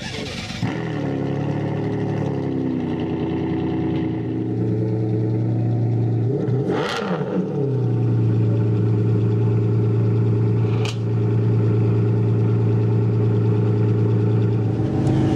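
Ferrari Enzo's V12 running at a steady, low idle, with a brief noisy swell about halfway through and a short click a few seconds later.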